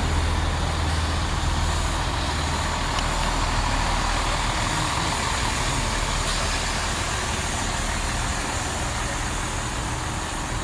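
Great Western Railway Class 165 diesel multiple unit running at the platform: a steady diesel rumble with a low hum that gives way about two seconds in, the noise then slowly fading.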